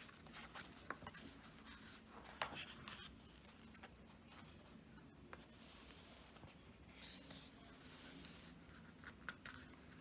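Faint rustling and soft clicks of photobook pages being handled and turned, in scattered short bursts.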